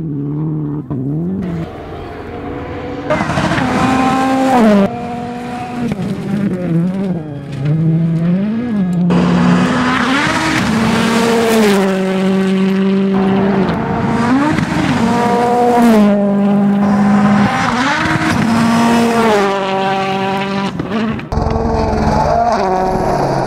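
Rally cars driven hard, one after another: the engines rev high and fall away sharply at each gear change, in repeated rising and dropping sweeps.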